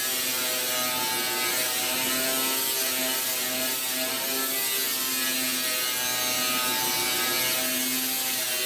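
A power tool's rotary stripping wheel running steadily against the truck's steel, grinding off paint and rust with a continuous high hiss.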